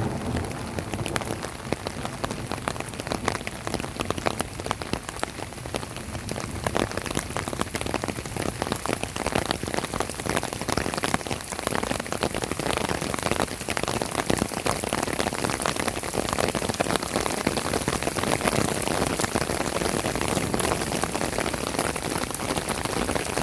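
Heavy rain falling steadily, a dense patter of drops striking a hard surface, a little louder in the second half.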